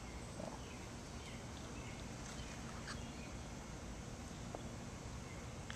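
Outdoor ambience: a steady background hum with a few short, faint bird chirps and small clicks.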